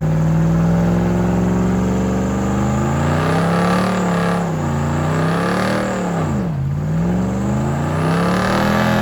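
Truck engine revved hard and held at high revs, its pitch wavering up and down, falling sharply about six and a half seconds in and then climbing back up.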